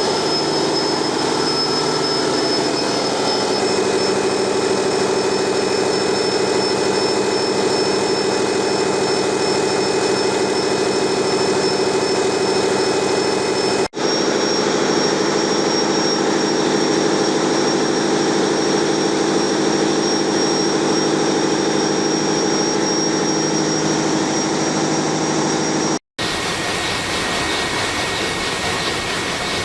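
Engine-room noise of a Sulzer 12RTA96C, a twelve-cylinder two-stroke low-speed marine diesel main engine, running steadily at about 70 rpm. It is a loud, dense mechanical din with a steady high whine. It cuts out abruptly twice, about 14 s and 26 s in, and the tones shift slightly after each break.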